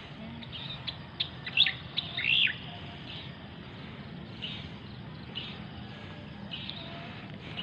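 Birds chirping: a few sharp, sweeping calls a second or two in, then fainter short calls every second or so, over a steady low background rumble.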